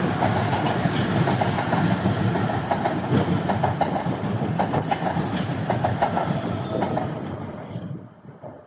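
A train running along the rails at a station, wheels clicking over rail joints amid a loud rumble, the sound fading away near the end as it draws off.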